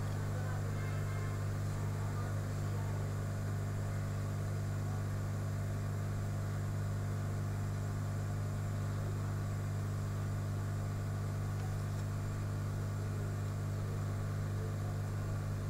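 Steady low electrical hum with a faint hiss, unchanging in pitch and level.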